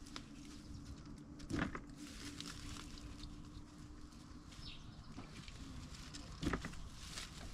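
Two dull thuds about five seconds apart over faint outdoor background with scattered light ticks; a low steady hum stops about five seconds in.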